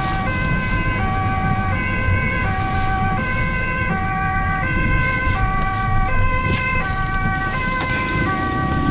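Ambulance two-tone siren alternating steadily between a high and a low note, each note held for a little under a second, heard from inside the cab over the low rumble of the engine and road.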